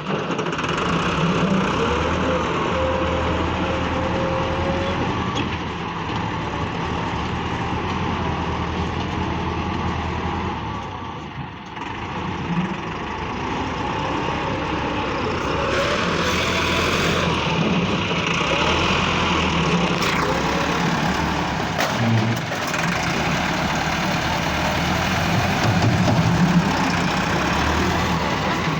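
Massey Ferguson tractor's diesel engine running steadily, easing off briefly about halfway through, with a few short knocks in the second half.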